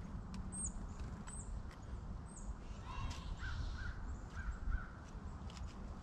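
Small woodland birds calling: three very high, thin down-slurred notes in the first couple of seconds, then a quick run of four short nasal notes past the middle, with scattered faint ticks.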